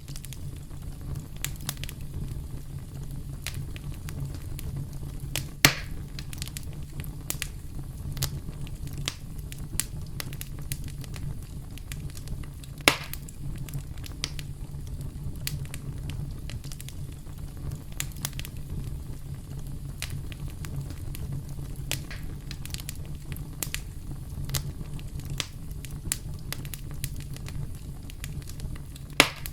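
Campfire crackling: a steady low rumble of burning wood under frequent small clicks and pops. Three louder snaps stand out, about six seconds in, about thirteen seconds in, and near the end.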